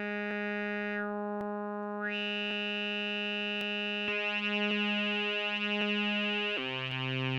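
Electronic synthesizer playing one long held note: its tone brightens with a rising sweep about two seconds in, then pulses slowly, and near the end it drops to a lower note. A faint click sounds about once a second.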